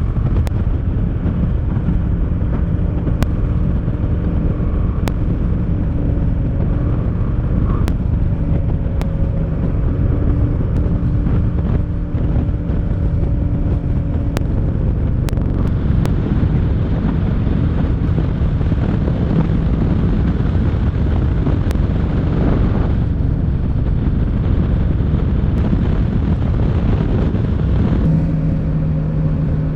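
Motorcycle engine running while riding, under heavy wind noise on the microphone. The engine note shifts a few times, and near the end it changes to a steadier, lower hum.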